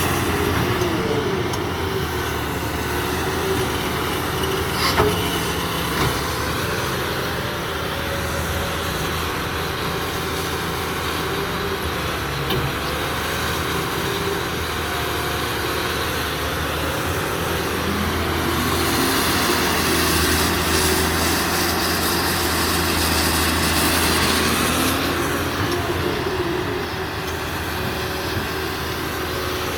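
Cat 330B hydraulic excavator's diesel engine running steadily while the machine is worked, with tones rising and falling in pitch as the load changes. A sharp knock comes about five seconds in.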